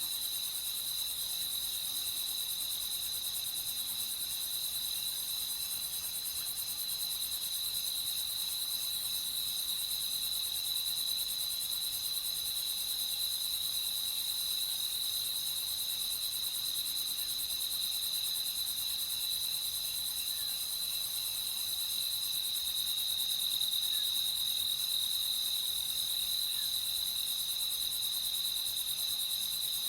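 Crickets trilling in a dense, unbroken chorus at one steady high pitch.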